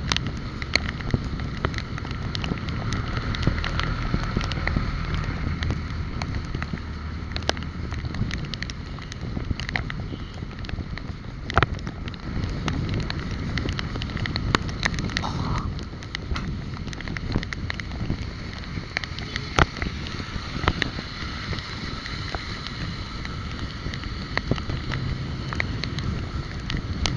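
Wind buffeting the microphone of a moving bike-mounted camera, over a steady low road rumble, with frequent sharp clicks and rattles.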